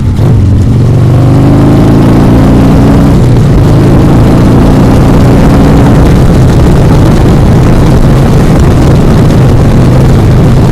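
Harley-Davidson Sportster 1200's air-cooled V-twin under way, accelerating with its pitch climbing twice as it pulls through two gears, then running steadily. The recording is loud and crunchy.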